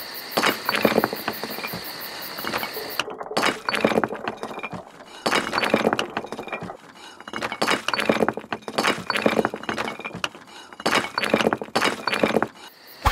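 Small hard plastic Lego pieces clattering and clinking in irregular clusters of clicks and knocks, with a steady high whine over the first three seconds.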